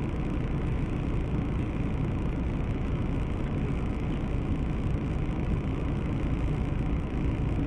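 Steady car engine and road noise, with no crash or impact heard.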